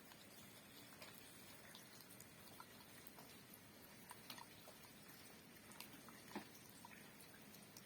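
Faint light rain: a soft steady hiss with scattered drops ticking at irregular moments, a couple a little louder.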